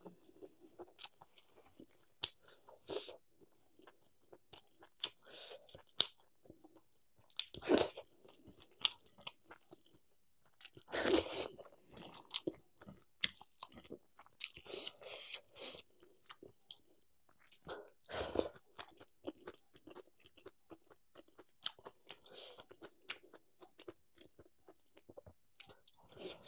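A person eating a rice-and-curry meal: steady chewing with many small mouth clicks, and louder crunching bites about 8, 11 and 18 seconds in.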